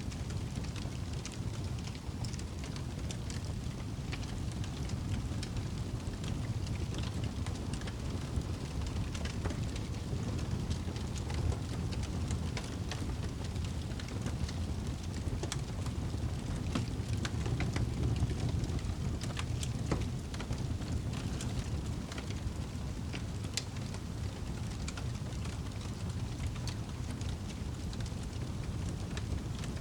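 Campfire crackling, with irregular small pops and snaps over a steady low rumble.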